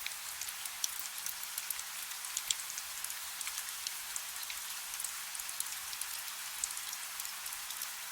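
Soft, steady rain: an even high hiss dotted with many small, sharp drop ticks, with little low rumble.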